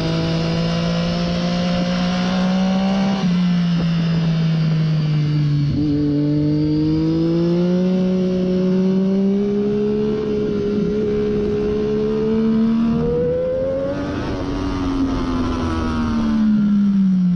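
2014 Triumph Daytona 675's inline three-cylinder engine through a Hindle slip-on muffler, under load on track. Its pitch climbs and dips at gear changes about three and six seconds in, rises steadily again, then falls away near the end as the bike slows.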